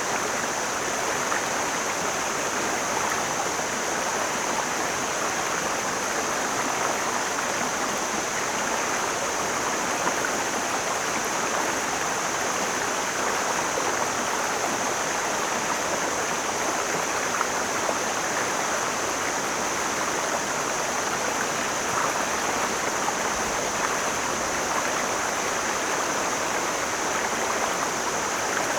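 Mountain stream flowing over rocks, a steady rush and babble of water.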